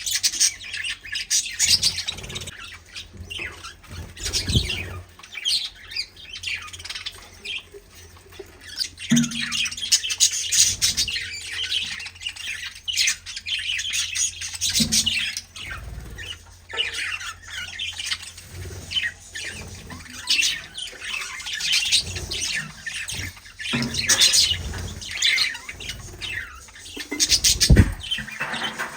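Flock of pet birds chattering, with many overlapping chirps and squawks, and a few low thumps, the loudest one near the end.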